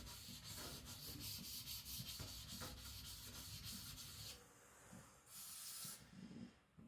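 Carbon-steel (75Cr1) knife blade rubbed back and forth on a Naniwa Professional 400-grit whetstone, grinding the flats of the blade to clean up the sides. The strokes break off about four seconds in, with one more short stroke a second later.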